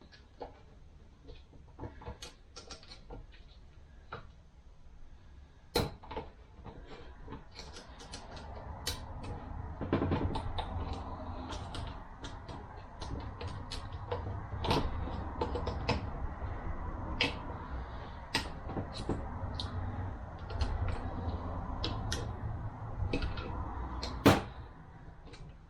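Transmission parts being handled on a workbench: irregular metal clicks and knocks over a rubbing, scraping noise, with a sharp knock about six seconds in and another, the loudest, near the end.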